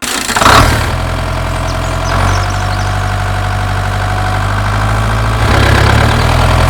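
Tractor engine idling steadily, a low even rumble.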